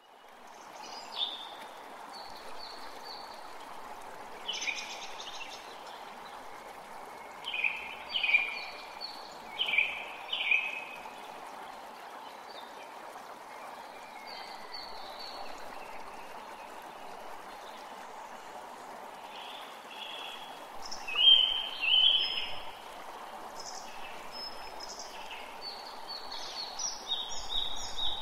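Steady outdoor background hiss with small birds chirping in short groups now and then, loudest about eight to ten seconds in and again about twenty-one seconds in.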